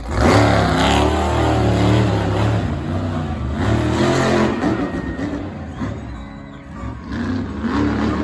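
Monster truck engine revving hard, its pitch rising and falling with the throttle. It eases off briefly about two-thirds of the way through and climbs again near the end.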